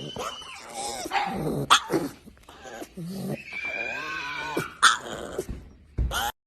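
A pet animal vocalising in short barks and growls, with a few sharp knocks in between; the sound cuts off suddenly about six seconds in.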